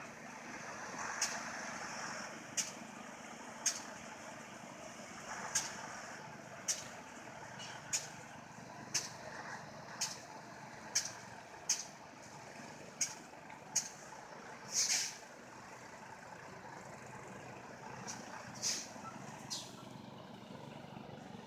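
Diesel engine of a stuck semi truck running steadily while its drive tires spin in the snow. Short, sharp, high-pitched clicks or squeaks come about once a second, the loudest about 15 s in.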